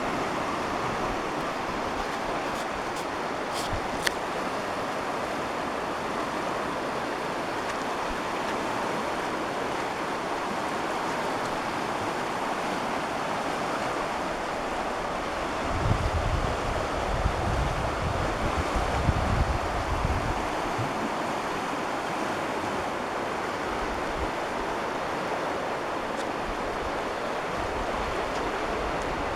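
Steady rushing of a creek running high above flood stage, with wind buffeting the microphone for a few seconds past the middle.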